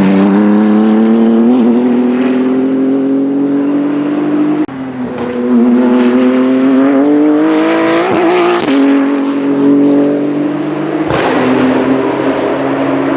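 BMW M4 GT3 race car's twin-turbo straight-six under hard acceleration. The engine note climbs steadily, then drops abruptly twice, about 5 and 8.5 seconds in, as it shifts up a gear and pulls again.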